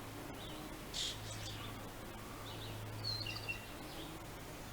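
Small songbirds chirping: a few short high chirps about a second in and a cluster around three seconds in, over a steady low background hum of town noise.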